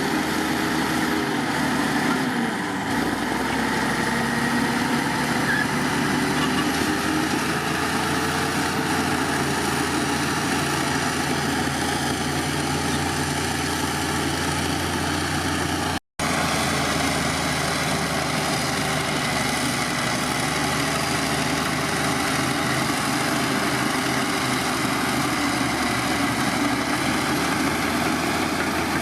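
Heavy diesel engine of earthmoving machinery running steadily, with a very brief dropout to silence about halfway through.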